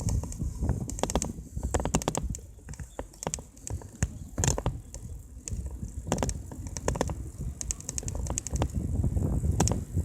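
Mountain bike riding along a road: irregular clusters of sharp clicks and rattles from the bike, over a low rumble of wind on the microphone.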